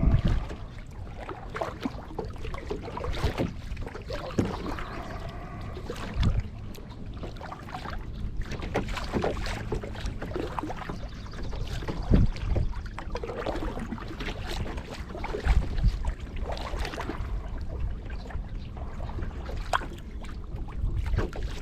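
Kayak paddling: the paddle dipping and pulling through the water with splashes and drips every few seconds.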